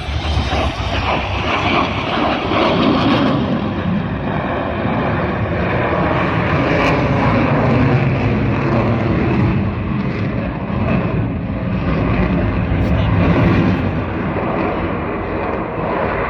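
F-22 Raptor's twin Pratt & Whitney F119 jet engines, a loud steady roar with slowly shifting pitch that swells and eases several times as the fighter performs its demo.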